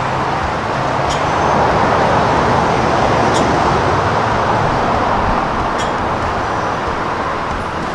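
Steady road traffic noise, swelling a little a couple of seconds in and easing off near the end, with a few faint clicks.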